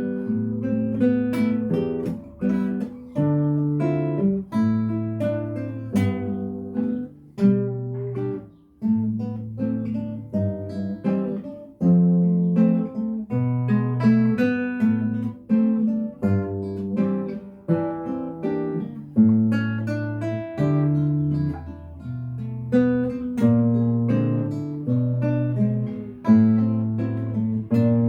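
Acoustic guitar music: plucked notes and chords over a moving bass line, played without a break.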